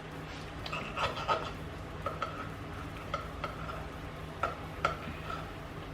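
A dozen or so light, irregular clicks and taps, each with a brief ring, over a low steady hum.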